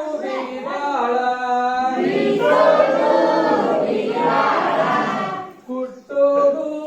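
A group of voices singing together, with many voices at once through the middle. A single voice holds sustained notes at the start and comes back near the end.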